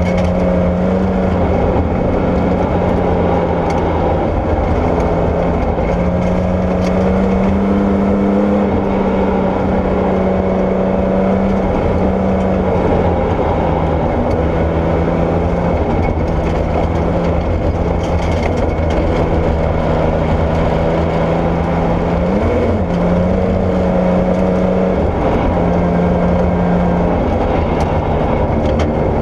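Porsche 964 rally car's air-cooled flat-six engine running hard on gravel. Its pitch steps up and down between steady stretches and gives one quick rise and fall a little past two-thirds of the way through, over a constant rush of tyre and gravel noise.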